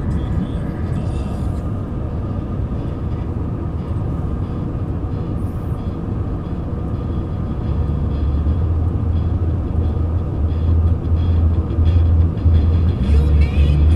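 BNSF train passing, a steady low rumble that grows louder about halfway through, with a low throb pulsing in its last few seconds.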